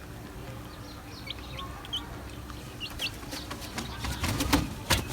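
Kept birds chirping in short high calls, then a rush of wing flaps and knocks toward the end.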